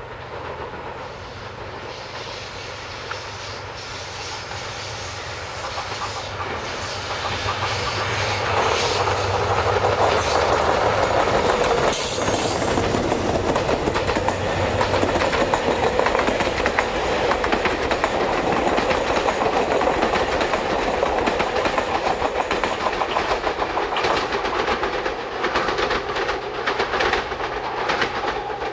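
The Seven Stars in Kyushu cruise train, a long rake of dark coaches, runs through the station. A steady low engine hum builds, then wheels clatter over the rail joints, loudest about halfway through, and the clatter eases near the end as the train draws away.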